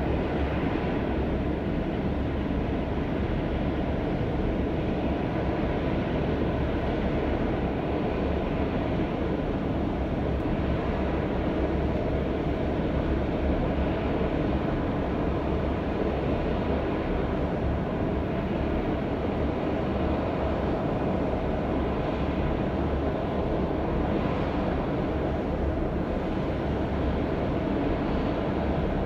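Jet engine running on a factory test stand, a steady low noise with a faint steady tone above it that does not change.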